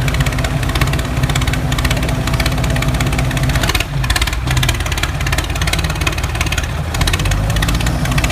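Small motor of a homemade mini tractor running steadily with a rapid chatter, dipping briefly and shifting in tone about four seconds in.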